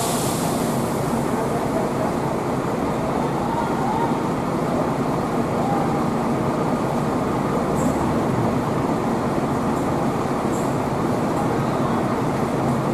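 Bus terminal ambience: a steady din of bus engines running, with indistinct voices in the background and a couple of short high hisses partway through.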